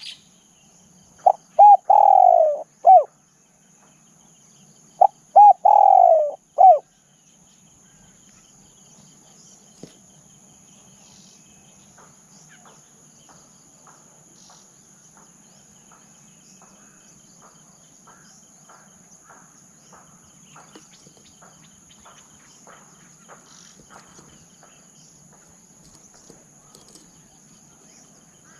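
Spotted dove cooing twice in the first seven seconds. Each call is a short note, a longer falling coo and a closing short note. After that only a faint steady high whine and faint ticking remain.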